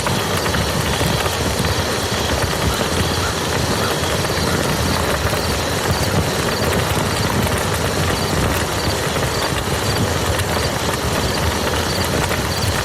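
Steady heavy rain falling on a muddy field: a dense, even hiss of drop impacts.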